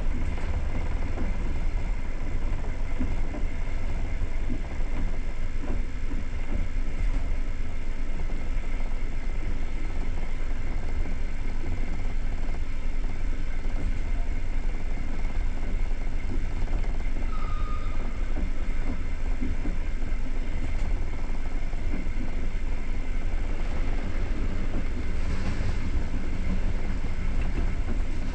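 Passenger train coach running at speed, heard from inside: a steady, deep running noise of wheels on the rails. A short faint tone sounds about two-thirds of the way through.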